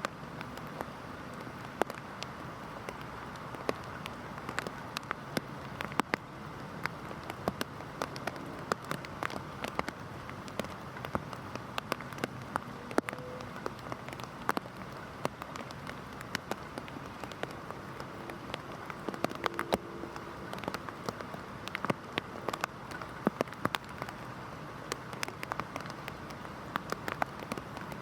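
Heavy rain falling steadily, with many sharp individual drops tapping on a hard surface close by.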